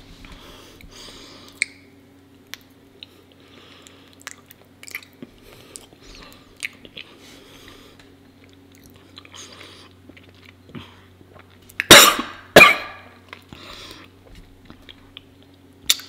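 Close-miked chewing of raw honeycomb: soft sticky, wet mouth clicks and smacks. About twelve seconds in come two loud coughs, half a second apart.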